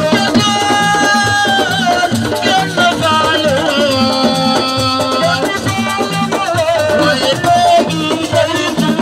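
Live Senegalese assiko band music: long held sung notes, some wavering, over a steady rhythm of drums and shakers.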